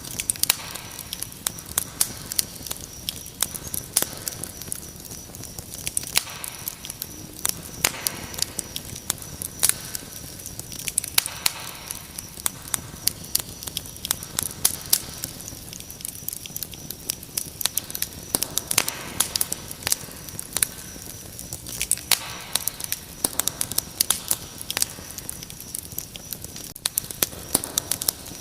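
Wood fire crackling, with frequent irregular pops and snaps, over a steady high-pitched trill of crickets.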